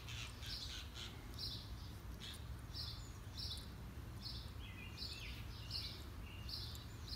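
A bird chirping over and over: short, high chirps repeated about one and a half times a second, over a steady low rumble.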